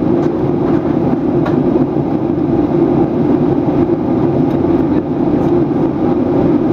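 Steady in-flight cabin noise of a Boeing 737-800 airliner: an even drone of engines and airflow, with a few faint ticks.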